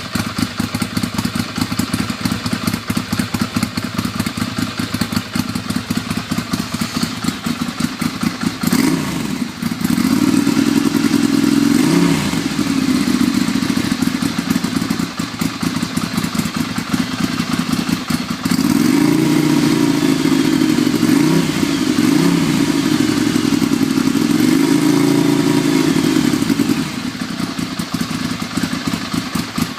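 Ducati Monster 696's air-cooled L-twin engine, breathing through a Leo Vince aftermarket exhaust, idling with a fast choppy beat. It is revved briefly about ten seconds in, then given a longer run of repeated rises and falls in revs from about eighteen seconds, and settles back to idle near the end.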